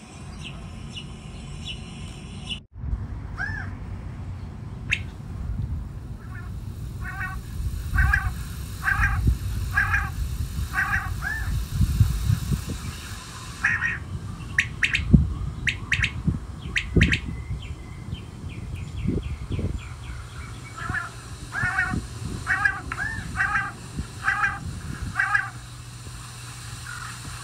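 Birds calling in runs of short, arched, squawking calls, about two a second: one run in the first half and another near the end, with a few sharper calls between. A low rumbling noise runs underneath.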